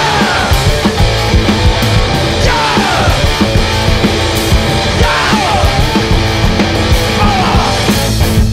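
Loud live punk-blues rock played on amplified instruments, with a driving beat. A falling slide in pitch comes about every two and a half seconds, four times.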